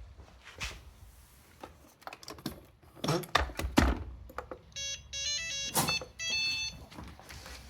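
Robot vacuum cleaner playing a short electronic start-up tune of stepped beeps, about five seconds in, after a few clicks and knocks.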